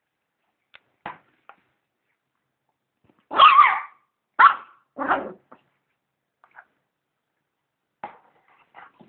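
A dog barking in short separate barks: a few faint ones, then three loud barks in quick succession around the middle, then a couple of fainter ones near the end. No vacuum cleaner is heard running under the barks.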